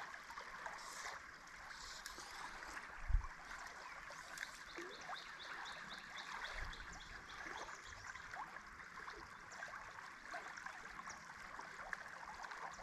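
Faint, steady rush of river water flowing over shallows. A single low thump about three seconds in, and a run of faint high ticks through the middle.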